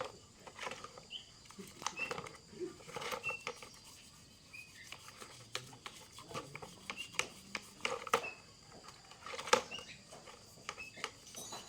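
Irregular sharp clicks and knocks, a dozen or so scattered through, with short high bird chirps between them.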